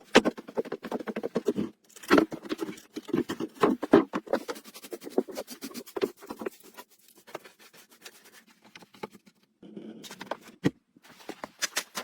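Quick, irregular scratching and clicking, like hands working with dry materials, thinning out past the middle and picking up again near the end.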